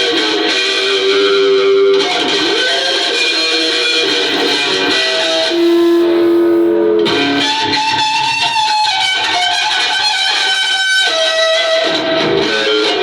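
Electric guitar playing a lead line of long held notes, some wavering with vibrato or bends.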